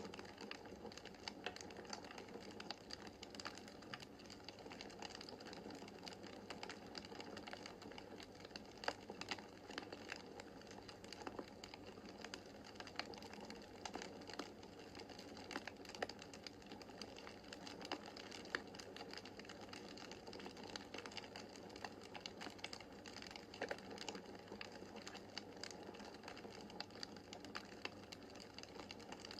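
Wood fire crackling in a fireplace: a dense, irregular stream of small snaps and pops over a soft hiss, with a few louder snaps.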